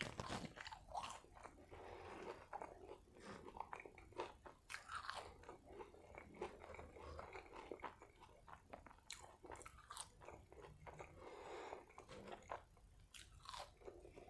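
A person chewing and eating fries dipped in barbecue sauce, quietly, with a steady run of short wet mouth clicks and smacks.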